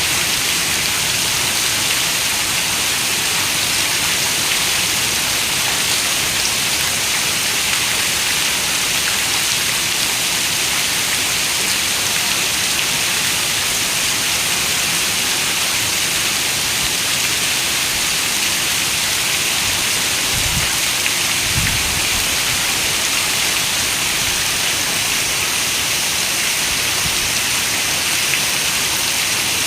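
Steady rain falling on a window, an even hiss with no let-up, with two brief low thumps about twenty seconds in.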